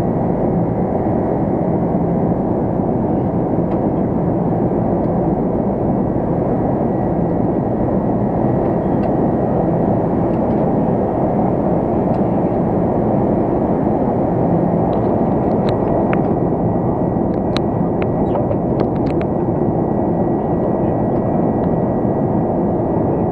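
Steady cabin noise of an Airbus A330-202 airliner in flight: a dense rush of engine and airflow noise with a faint steady whine above it. A few light clicks sound from about two-thirds of the way in.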